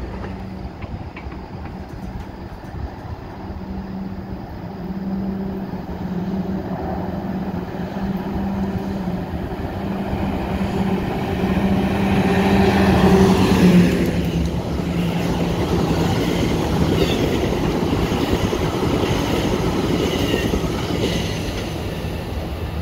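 Diesel commuter locomotive hauling bilevel coaches approaches and passes beneath. Its engine hum grows louder and dips in pitch just over halfway through as it goes by, then the wheel and rail noise of the passing coaches continues.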